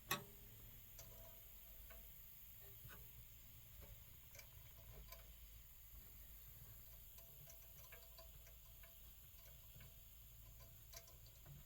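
Near silence with faint, irregular small clicks and taps of metal stove parts being handled.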